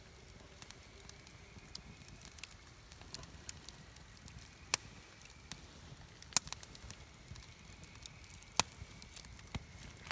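Wood campfire crackling, with scattered small snaps and a few loud sharp pops from the burning wood, the loudest three about halfway through and near the end.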